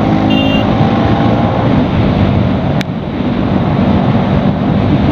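Bajaj Pulsar NS200's single-cylinder engine running at highway speed, with wind rushing over the rider's microphone; a single sharp click a little under three seconds in.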